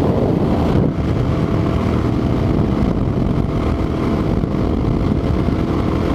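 Wind buffeting a helmet-mounted microphone while riding a sport bike at speed, with the motorcycle's engine running steadily underneath.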